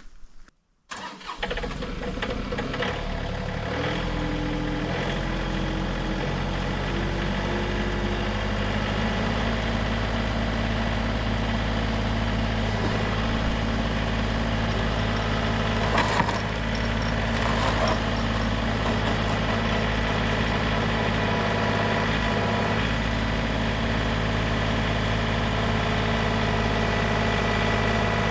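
John Deere compact tractor's three-cylinder diesel engine starting up and running steadily, its speed stepping up as it is throttled up a few seconds in. A couple of brief clanks come about halfway through.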